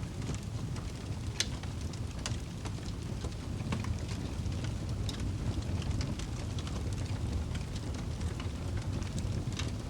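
Wood fire burning in a fireplace: a steady low roar with irregular sharp crackles and pops scattered throughout.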